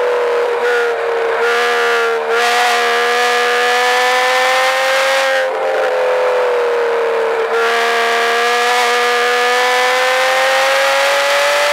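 2007 Porsche Cayman S's flat-six engine pulling hard on track, heard from inside the cabin. Its note holds fairly steady with a few brief dips, then climbs steadily over the last few seconds as the car accelerates.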